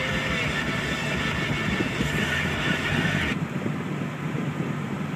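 Steady driving noise heard inside the cabin of a 1994 Toyota Land Cruiser with a 4.5-litre inline-six and a Magnaflow exhaust: engine, exhaust drone and road rumble. About three seconds in, the upper hiss drops away abruptly.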